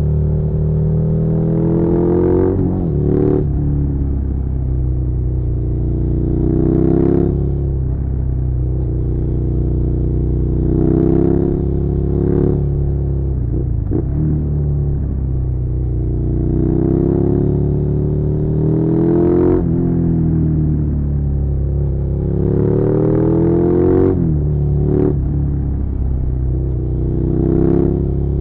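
Suzuki SV650's 90-degree V-twin engine under way, rising in pitch as it accelerates and then dropping sharply at each gear change or throttle roll-off, several times over.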